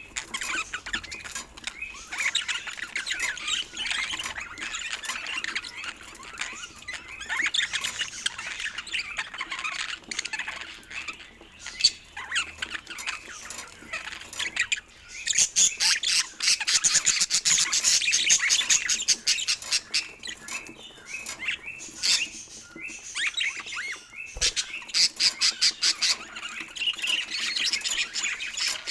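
Budgerigars chattering: a dense run of quick chirps and squawks, loudest and busiest about halfway through.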